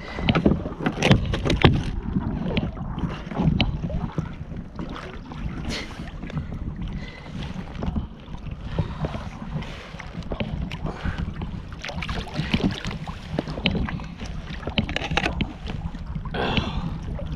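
Scattered knocks and clicks of handling on a fishing kayak, over a steady low rumble of wind on the microphone.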